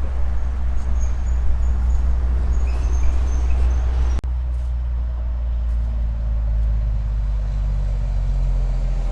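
Road traffic passing, heard as a steady low noise, with small birds chirping high above it during the first few seconds. The sound breaks off briefly about four seconds in and the traffic noise carries on.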